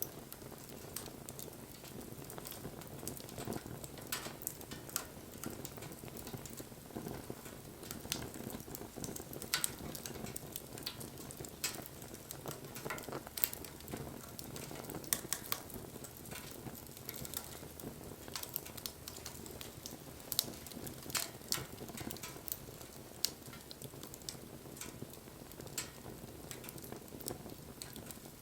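Wood fire burning, with irregular sharp crackles and pops over a steady low rush of flame.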